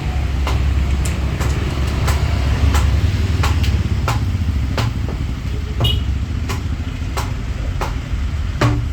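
Sundanese jaipong kendang with a jackfruit-wood body, struck by hand to test its sound. The sharp strokes come about twice a second over a deep, sustained bass tone from the large drumhead.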